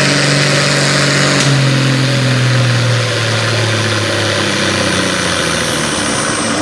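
A pulling truck or tractor engine winding down. Its steady note slowly drops in pitch and fades over about four seconds, with a thin high whistle falling alongside.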